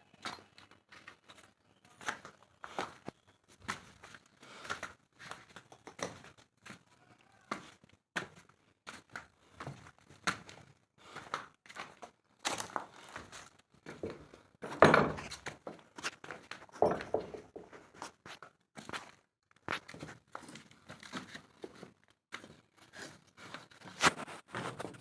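Irregular knocks, taps and clatter of stainless steel pipe-fitting work, with one louder thunk about fifteen seconds in.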